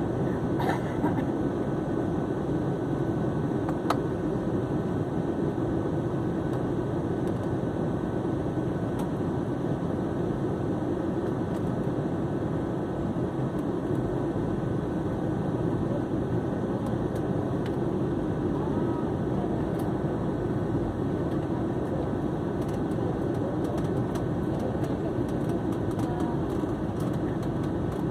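Steady low rumble of a passenger jet's engines and airflow, heard from inside the cabin in flight, with a faint steady high tone over it.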